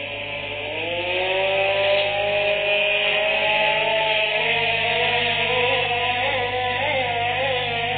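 Small two-stroke engine on test revving up about a second in, then running at high speed, its pitch wavering up and down near the end in the 'é o e o' surge.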